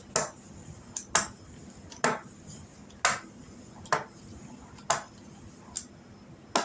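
Pizza cutter slicing rolled-out dumpling dough into strips, with a sharp click as the wheel meets the board about once a second.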